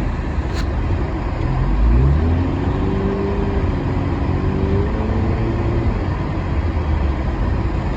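Vehicle driving through snow, heard from inside the cabin: steady engine and road noise with a low rumble, and an engine note that rises for a few seconds in the middle. A single short click about half a second in.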